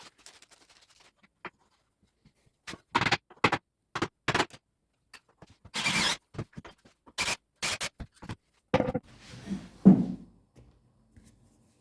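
A series of irregular sharp knocks and clicks, then a scraping rub ending in a dull thud near the end, as of hard objects being handled and set down.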